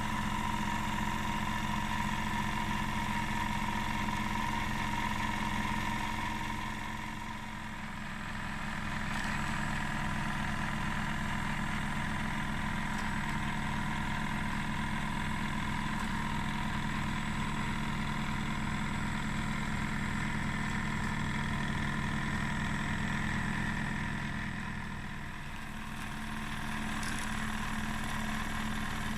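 Wilesco D20 toy steam engine running steadily, with a fast even beat from its exhaust and working parts. The sound eases off briefly twice.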